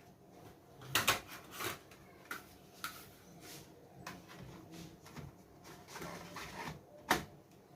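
Scattered plastic clicks, taps and rubbing as parts of a Dell Inspiron 15 5558 laptop are handled during disassembly, the sharpest knocks about a second in and near the end.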